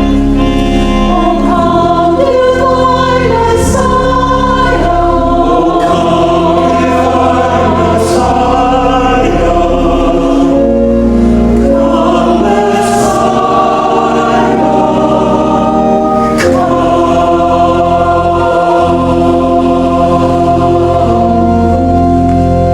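A church choir singing a sacred Advent piece, with held accompaniment notes underneath.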